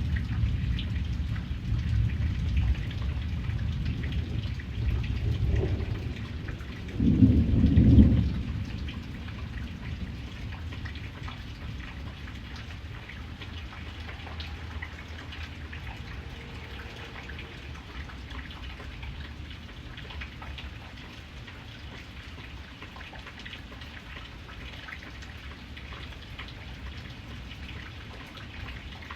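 Steady rain falling, with thunder rumbling through the first several seconds and swelling to its loudest about seven seconds in before dying away, leaving the rain hiss on its own.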